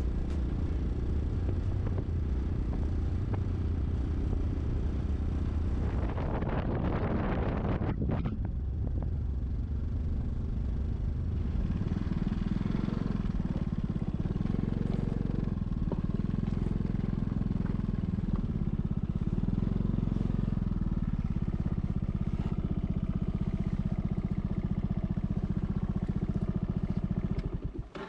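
Honda PS250 scooter's single-cylinder engine running steadily on the road, with wind noise, a louder swell of noise about six to eight seconds in, and a steadier hum after that.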